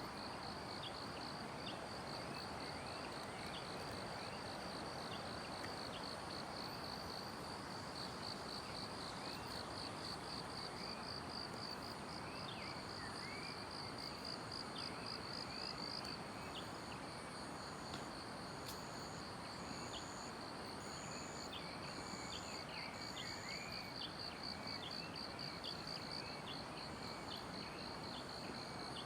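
Forest morning chorus: an insect trills continuously in a fast, high pulsing while birds give scattered short chirps, over a steady background hiss. In the middle stretch, a second, higher note repeats about once a second and grows louder.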